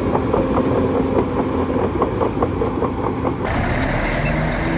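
Heavy machine engine running, with a regular knock about four times a second. About three and a half seconds in the sound changes suddenly: the knocking stops and a steadier engine tone takes over.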